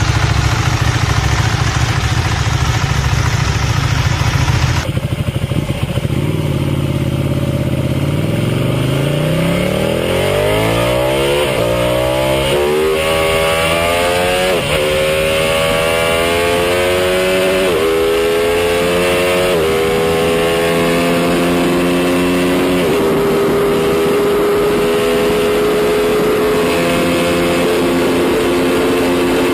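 Motorcycle engine accelerating hard through the gears: the pitch climbs, then drops back at each of several upshifts, with the later gears climbing more slowly. Before that, a rougher, deeper engine sound cuts off about five seconds in.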